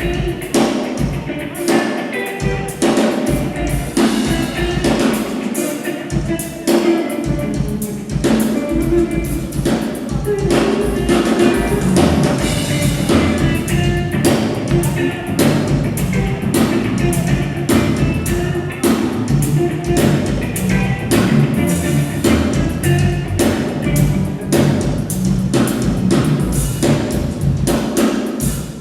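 Drum kit played non-stop with dense, rapid strokes, over pitched instruments holding steady notes underneath.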